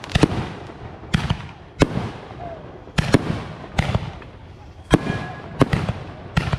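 Fireworks going off: a string of sharp bangs at irregular spacing, roughly one a second, with crackling between them.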